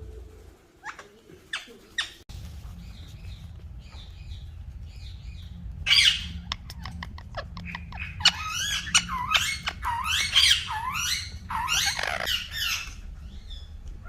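Green parrot calling: a few clicks early on, a loud harsh squawk about six seconds in, then a quick run of rising and falling whistles and chirps. A steady low hum starts about two seconds in and runs underneath.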